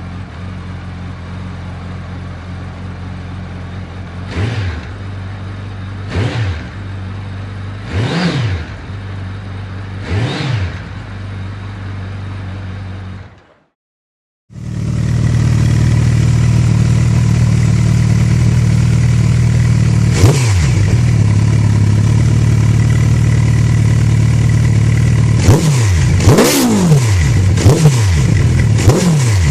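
Suzuki Hayabusa inline-four with an aftermarket full exhaust idling, blipped four times at about two-second intervals. After a brief cut, a second, louder exhaust idles, revs once, then is blipped rapidly several times near the end.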